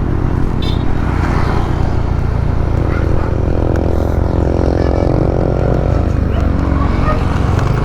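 Motorcycle engine running steadily while riding, at an even speed.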